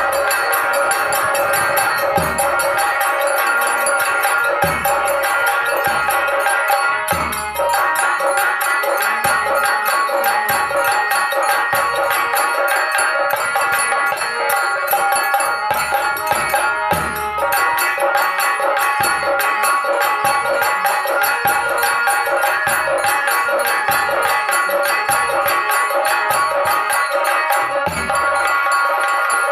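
Instrumental folk dance music: nagara kettle drums beating low, heavy strokes under a fast, steady metallic jingling, with steady held tones over them.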